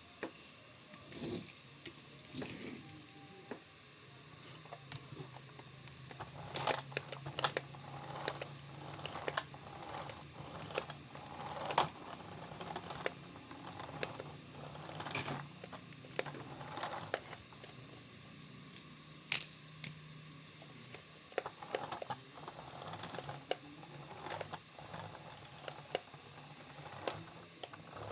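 Toys being handled by hand: scattered irregular clicks, knocks and short rustles of small objects, over a faint steady low hum.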